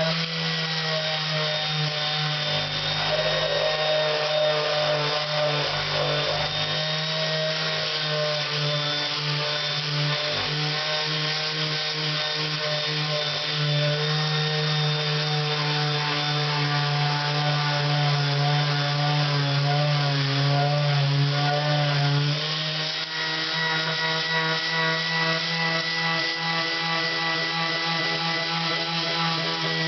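Electric power tool motor running steadily while sanding a Honda CX500 cylinder head's gasket surface with coarse P60 sanding paper; its pitch wavers under load and the sound changes about 22 seconds in.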